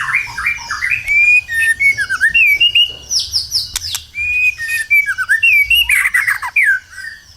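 White-rumped shama (murai batu) in full song: a fast, varied run of clear whistles, sweeping notes and rapid chattering trills with hardly a pause, easing off near the end.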